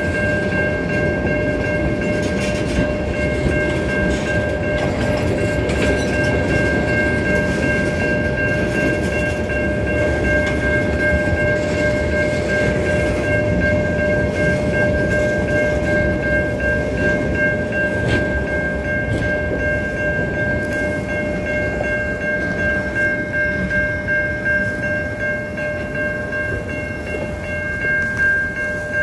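Freight cars (tank cars and covered hoppers) rolling steadily past over the rails with a continuous rumble. Throughout, a grade-crossing warning bell rings as a steady high ringing over it.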